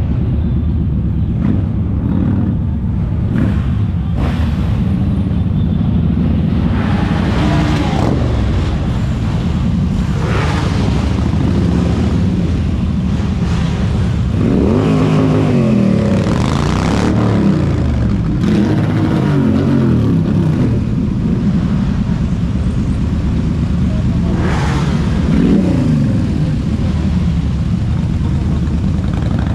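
Motorcycle engine running under way, a steady low drone whose pitch rises and falls as it revs about halfway through and again near the end.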